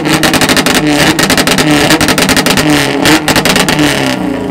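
Honda four-cylinder engine revved hard and held high, a loud rapid stutter that drops away near the end.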